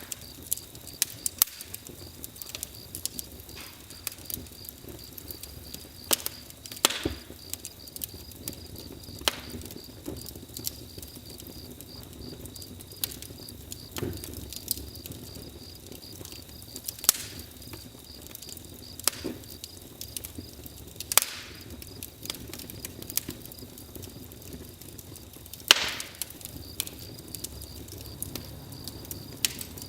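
Campfire crackling: wood burning with irregular sharp snaps and pops, a few of them louder, over a steady thin high tone.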